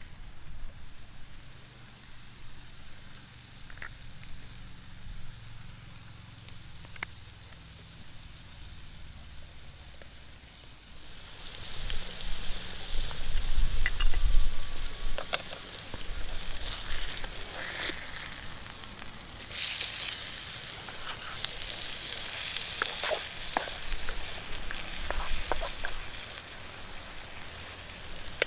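Chopped vegetables and a hamburger patty frying in a pan on a Trangia camping stove. The sizzle starts about eleven seconds in and keeps going, with scattered clicks from the pan and utensils.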